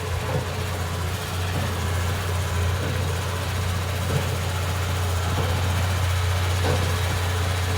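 Komatsu D31P bulldozer's diesel engine running steadily at an even pace, with a couple of faint knocks about four and seven seconds in.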